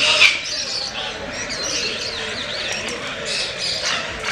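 Birds chirping and calling, with one louder call right at the start, over a steady murmur of background voices.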